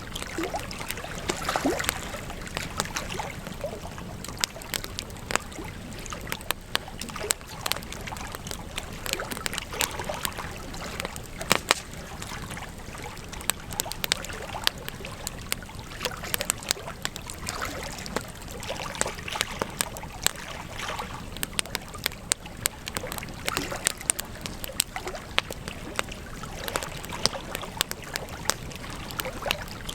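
Campfire crackling: a steady hiss of burning wood broken by frequent sharp pops and snaps, a few of them louder than the rest.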